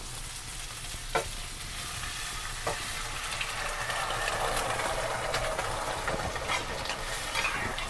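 Vegetables sizzling in oil in a wok, with two light taps of a steel spatula early on. The sizzle grows a little louder about halfway through as boiled arhar (toor) dal is poured into the pan.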